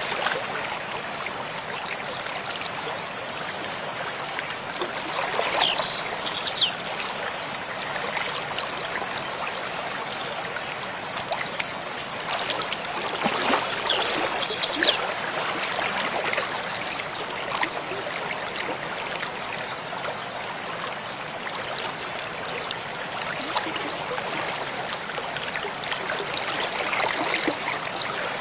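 Mountain stream flowing steadily. A bird sings a short, rapid, high trill twice, about six seconds in and again near the middle, louder than the water.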